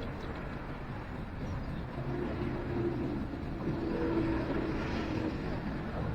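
Road traffic: a motor vehicle running, with a steady low engine hum through the middle over a rumble of road noise.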